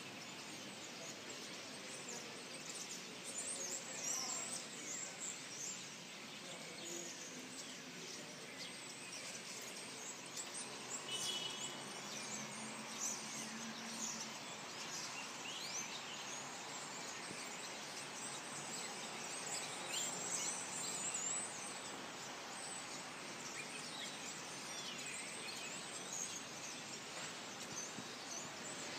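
Wild birds chirping and calling, many short high chirps and quick whistled glides scattered throughout, over a steady background hiss.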